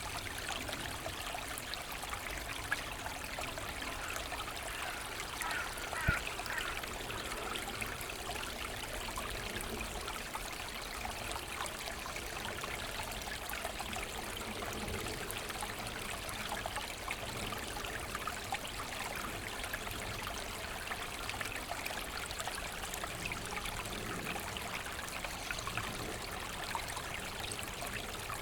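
Small forest brook babbling and trickling steadily over stones. There is a single short tap about six seconds in.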